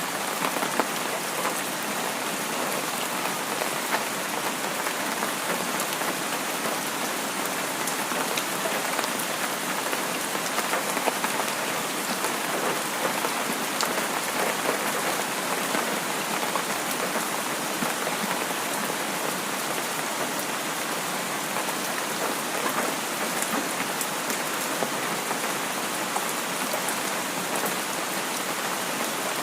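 Steady rain falling, a dense hiss with many small drop ticks landing on a surface.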